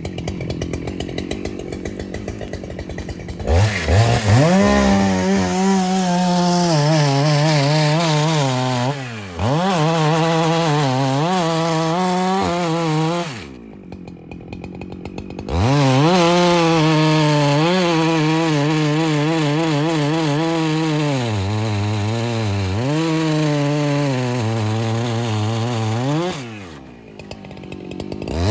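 Two-stroke chainsaw cutting wood. It idles, then goes to full throttle a few seconds in, its pitch sagging and wavering as the chain bites. It drops back to idle about halfway through, revs up and cuts again, and eases off near the end.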